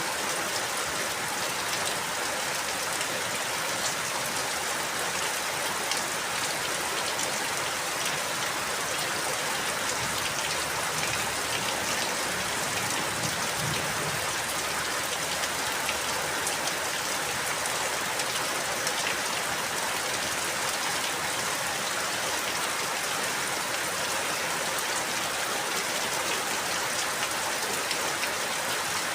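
Steady rainfall, a dense even hiss with fine pattering of drops on surfaces.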